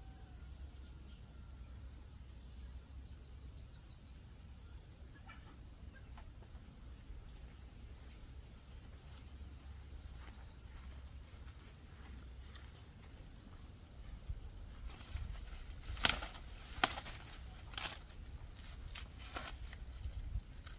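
Insects buzzing steadily at a high pitch, the buzz breaking into a fast pulsing trill now and then. Near the end come a few sharp snaps or knocks, the loudest about four fifths of the way through.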